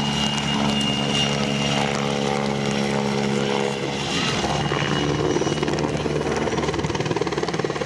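Helicopter flying a display pass: steady rotor and turbine noise with a stack of engine tones that fade out about four seconds in, leaving a rougher, pulsing rotor sound.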